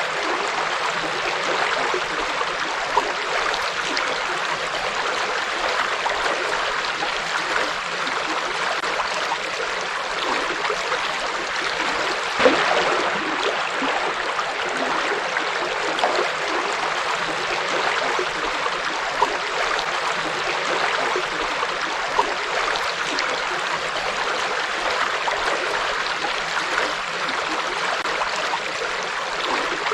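River water flowing: a steady rush with gurgles and the odd louder splash.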